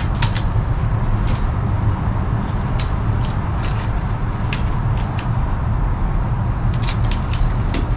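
A steady low rumble, with scattered light ticks and rustles as bankline cord is wrapped around wooden sticks.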